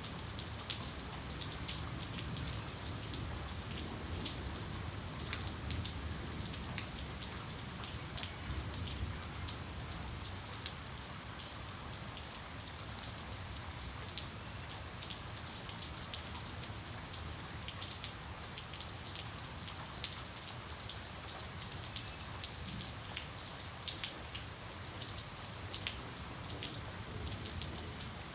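Steady rain with many sharp drop ticks pattering on a hard surface, over a faint low rumble that eases off partway through.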